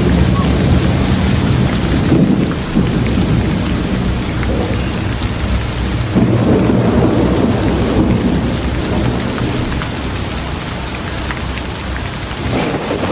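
Steady rain falling, with a low rumble of thunder underneath that swells and fades.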